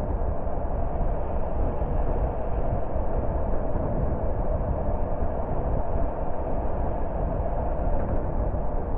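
Steady road noise of a car driving at an even pace: engine and tyres on the road making a constant low rumble and hum, with no change in speed.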